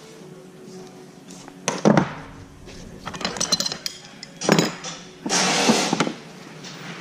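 Metal hydraulic fittings and hand tools clinking and rattling in several short bouts while being handled, over faint background music.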